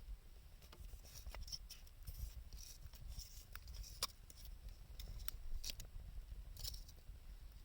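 Wood fire crackling, with irregular sharp pops and snaps over a faint hiss. The sharpest pop comes about four seconds in.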